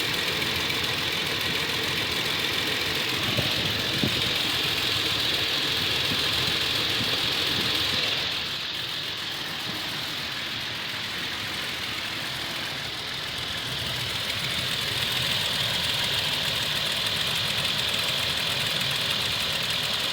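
Toyota Tacoma engine idling while warming up, with the diesel-like ticking that the owner takes for a bad valve or lifter. It grows quieter about eight seconds in and comes back up about six seconds later.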